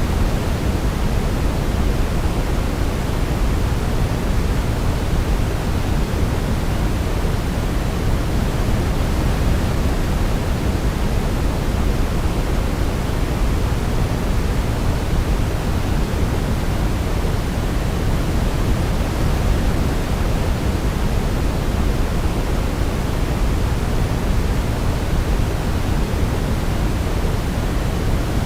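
Steady sleep-aid noise, a deep even hiss weighted toward the low end like pink noise, unchanging throughout with no melody audible.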